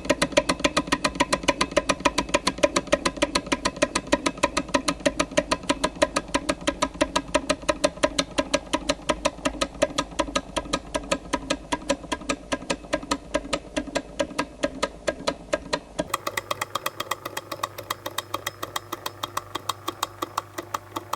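Jabama A500 model hot air Stirling engine running steadily: an even mechanical clicking, about three beats a second. About three-quarters of the way through the low hum underneath drops away abruptly and the clicks sound thinner.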